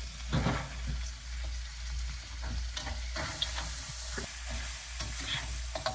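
Blue crabs, onion and potatoes sizzling in a hot wok, with scattered scrapes and clicks of a utensil stirring and turning them against the wok.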